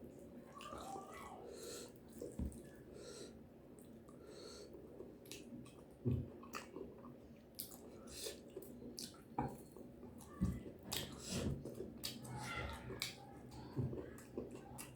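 Close-up eating sounds: chewing and wet mouth smacking with scattered sharp clicks, irregular throughout.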